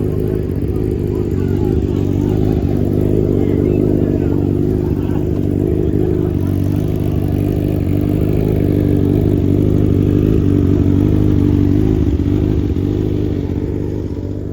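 Motorcycle engine running steadily at a low, even note, a little louder in the middle and fading near the end.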